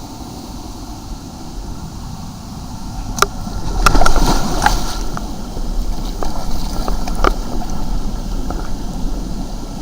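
Steady low rumble with wind noise on the microphone, and a few sharp knocks, several close together about three to five seconds in and one more about seven seconds in.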